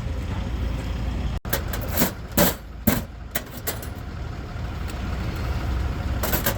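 A vehicle engine idling with a steady low rumble. A few short knocks and clicks come about two to three seconds in and again near the end.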